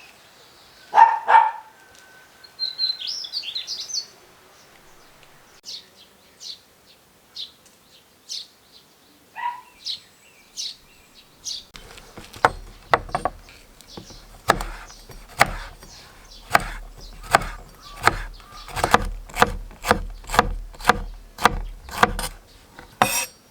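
Birds calling and chirping, then, from about halfway, a knife chopping steadily on a wooden cutting board at about two strokes a second.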